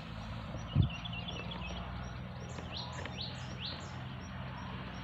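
Birds chirping in a run of short falling chirps, over a steady low hum, with one sharp thump just under a second in.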